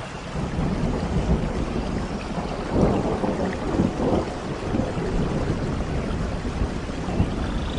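Rain falling steadily with a low rumble of thunder underneath, which swells louder about three seconds in.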